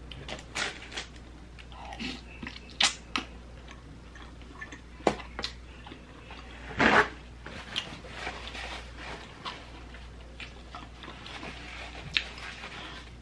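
Close-up chewing and wet mouth sounds of a person eating boiled mussels, with scattered sharp clicks and a louder burst about seven seconds in.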